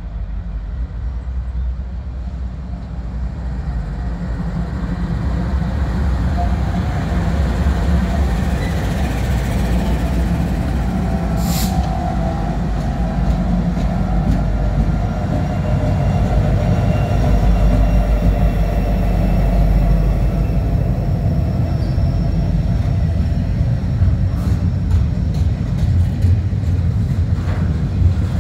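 Norfolk Southern freight train passing close by: the diesel locomotives' low rumble grows louder over the first several seconds as they approach and go past, then the double-stack container cars roll by with wheels clicking over the rail joints near the end. A brief sharp high sound cuts through about twelve seconds in.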